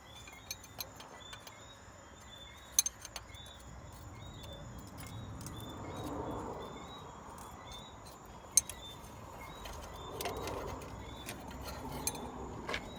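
A few sharp, scattered clinks and clicks, the loudest about three seconds in and another past the middle, over a quiet background with faint repeated high chirps.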